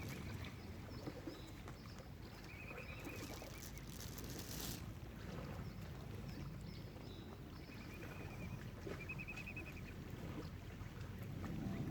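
Steady low outdoor rumble of wind and water, with short rapid trilling bird calls a couple of seconds in and again later, and a brief hiss about four seconds in.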